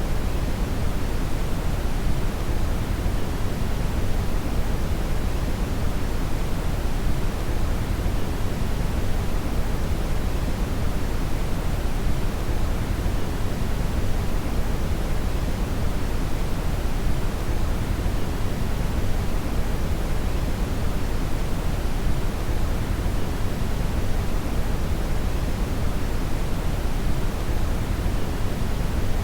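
Brown noise: a steady, even hiss weighted heavily toward the low end, a deep rumble-like wash with little treble, unchanging throughout.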